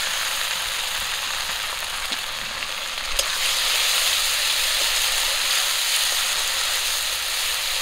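Ginger, garlic, cumin and dry red chilli pastes sizzling in hot oil with fried onions in a metal kadai, stirred with a metal spatula. The frying is steady and gets a little louder about three seconds in, with one sharp tap of the spatula against the pan.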